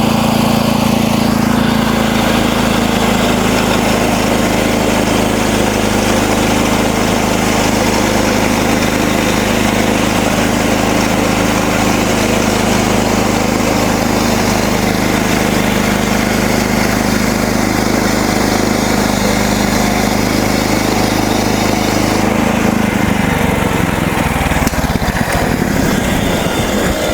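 MechMaxx SM32 band sawmill's gasoline engine running steadily under load as the band blade saws through a cedar log. About four seconds before the end, the engine's steady hum changes and breaks up.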